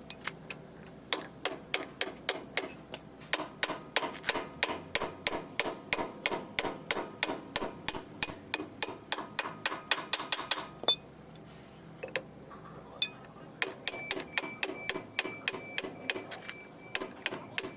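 Rapid metallic clicks from hand-tool work on a steel hydraulic cylinder, about four to five a second with a faint ring. They stop for about two seconds midway, then start again.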